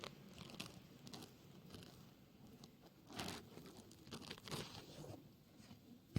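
Faint, irregular rustling and crinkling noises, a few louder scuffs among them, ending in one sharp click.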